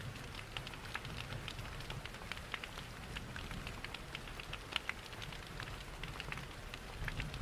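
Steady rain with irregular crackling and popping from a wood fire in a fireplace, over a low, even rumble.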